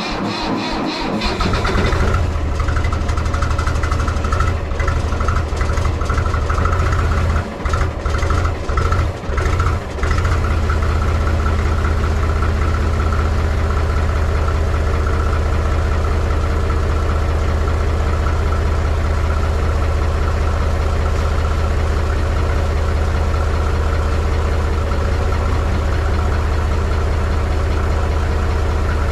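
Mahindra 3525 tractor's three-cylinder diesel cranking on the starter in a cold start at 19°F, with a booster pack on a low battery. It catches after about two seconds. It stumbles several times a few seconds later, then settles into a steady, chugging cold idle.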